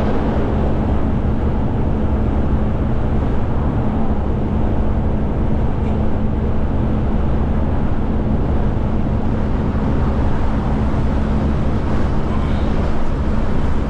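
Kenworth K200 cab-over truck's Cummins diesel engine running steadily at road speed, a constant low drone with road noise.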